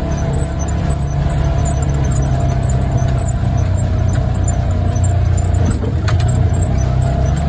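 Off-road vehicle's engine running steadily while driving, with a steady whine above the engine note.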